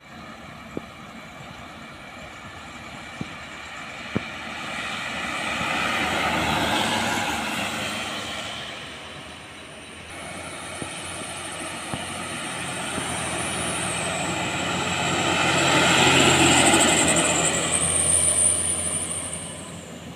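Road vehicles passing one after another, their engine and tyre noise swelling up and fading twice, loudest about a third of the way in and again near the end. A high thin whine runs through the second half.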